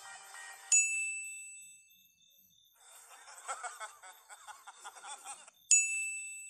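A bright ding sound effect strikes and fades over about a second. A man then laughs for a few seconds, and an identical ding sounds again near the end.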